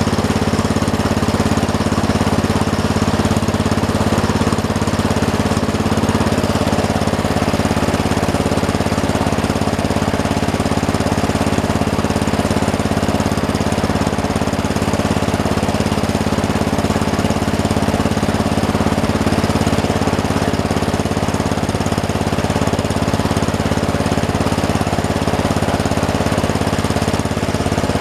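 Bobcat skid-steer loader's engine running steadily with a rough, even clatter.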